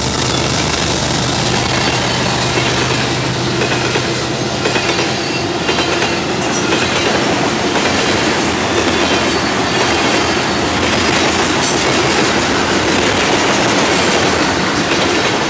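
Cars of an ethanol freight train rolling past close by: a steady loud rumble and rattle of steel wheels on rail, with clicks as wheels cross rail joints.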